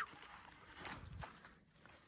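A hiker's footsteps on wet, muddy dirt: a few scuffing steps, with one heavier step about a second in.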